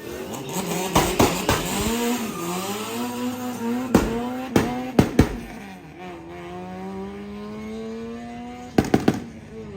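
Tuned car engine revving, its pitch rising and dropping and then climbing steadily, with sharp exhaust pops and bangs between revs: a few about a second in, one near the middle, and a quick cluster near the end.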